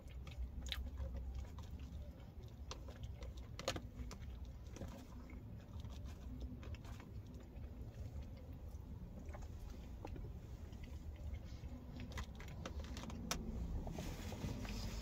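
A person chewing and eating, with quiet mouth sounds and a few sharp clicks of a plastic fork against a plastic takeout container, over a low steady hum.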